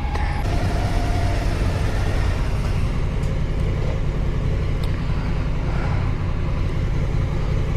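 Motorcycle engine running steadily at low revs, an even hum without revving.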